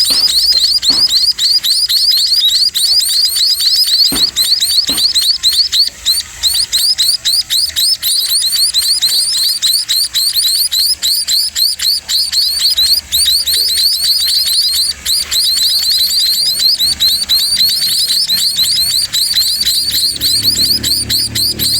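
Sparrows (burung pipit) calling rapidly and continuously while being fed: a dense run of high, quickly falling chirps, several a second.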